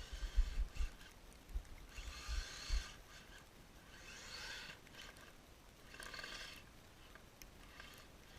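Electric motor and drive gears of a Kyosho Blizzard RC snowcat whining in three short throttle bursts, the middle one rising and falling. Low thumps and knocks come in the first few seconds.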